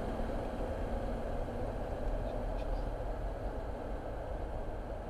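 Car driving along a road: a steady mix of engine and tyre noise.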